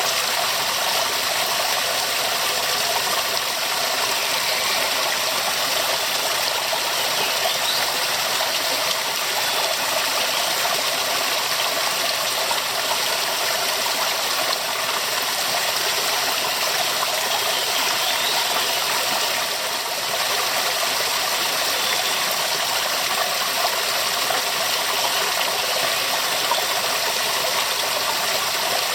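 Waterfall: a steady, full rush of falling water that does not change.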